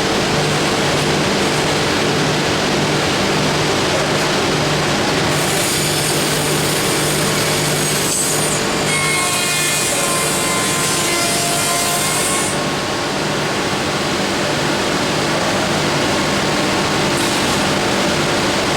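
Finger-jointing machine of a wood lamella splicing line running with a steady hum. From about five seconds in, a high hiss with a brief whine is heard as the cutters mill finger joints into the wood, stopping about twelve seconds in.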